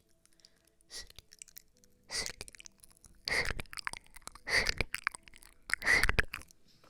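Close-miked ASMR trigger sounds: a series of five short, crunchy noise bursts, about one every second, the later ones louder.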